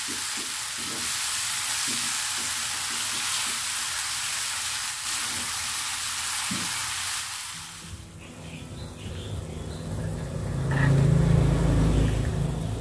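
Ground spice paste sizzling in a frying pan while being stirred and scraped with a silicone spatula. About eight seconds in, the sizzle stops and a lower, duller rumble follows.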